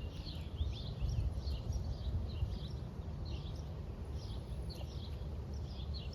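Small birds chirping over and over in quick short notes, over a steady low rumble.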